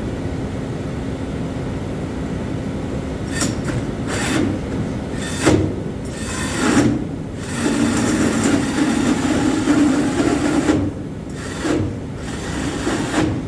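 Power tool cutting into a wooden floor: a few sharp knocks, then about three seconds of steady cutting, then more knocks, over a constant low hum.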